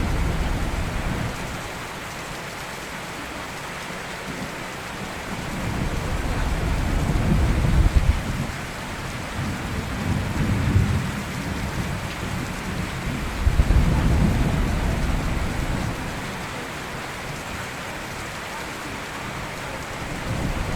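Steady rain with thunder rolling in low, drawn-out rumbles that swell and fade several times: at the very start, about a third of the way in, around the middle, and building again at the end.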